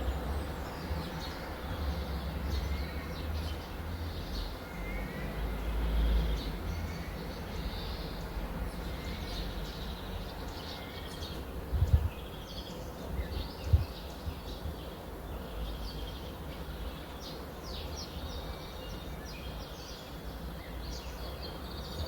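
Small birds chirping and calling over and over, with a steady low rumble underneath. Two brief low thumps come about halfway through.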